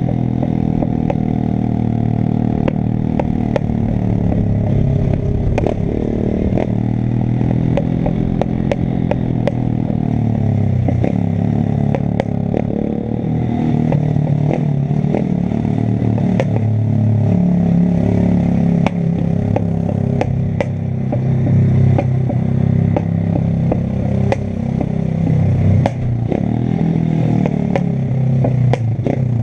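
Single-cylinder four-stroke 125 cc pit bike engine revving up and down as it is ridden, with many sharp clicks and rattles over it.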